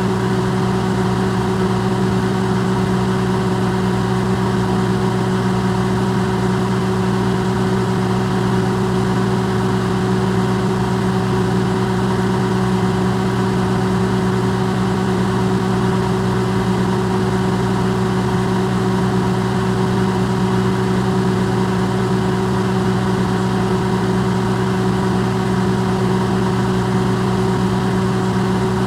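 Electrolux microwave oven running, recorded close up and amplified: a steady low hum with a faint whir, unchanging throughout.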